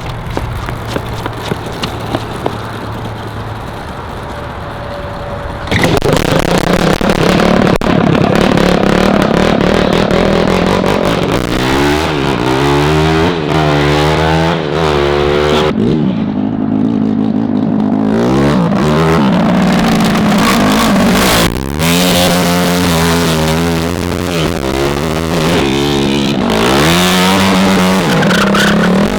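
Homemade shifter kart's engine running steadily, then about six seconds in it opens up loudly and revs hard, its pitch climbing and dropping again and again as the kart is driven.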